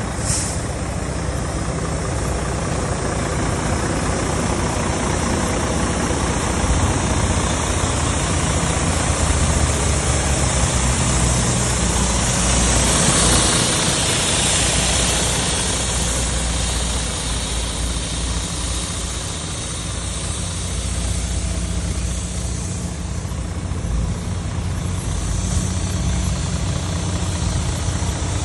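Volvo FMX 460 truck's 13-litre straight-six diesel idling steadily, growing a little louder for a few seconds around the middle.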